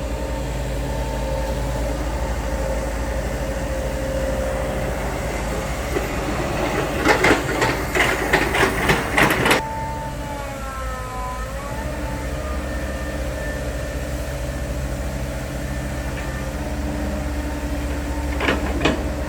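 Heavy truck's diesel engine running steadily, with a short run of clattering knocks about seven to nine seconds in. Right after the knocks the engine note shifts and glides.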